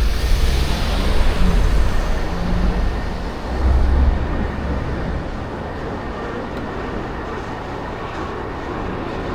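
Loud road and traffic noise with a deep rumble. It begins abruptly, is heaviest for the first five seconds, then settles into a steady rushing hiss.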